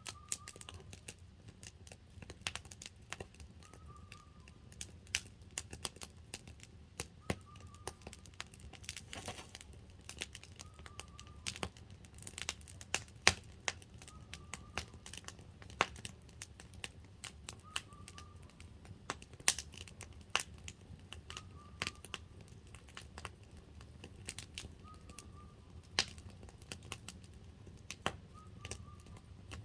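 Wood campfire crackling, with irregular sharp pops and snaps from the burning logs. A bird repeats a short chirp about every two seconds throughout.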